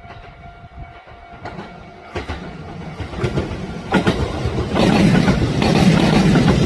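Kintetsu electric train approaching and passing, its wheels clicking over the rail joints; the sound builds from faint to loud, with the full rush of the train arriving about five seconds in.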